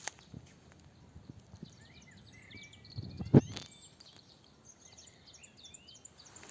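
Small birds chirping and trilling outdoors, with one loud, dull thump about halfway through and a sharp click at the start.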